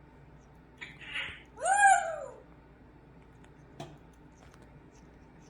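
A single meow: a loud pitched call that rises and falls, lasting under a second, preceded by a short breathy sound. A faint click follows.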